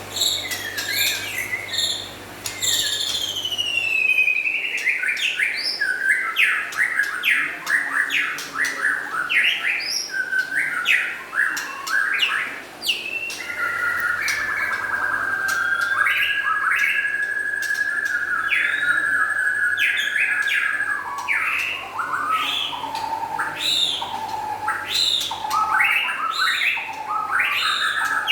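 White-rumped shama (murai batu) singing loudly: a fast, varied run of sweeping whistled and chattering notes, broken midway by one long steady whistle held for several seconds.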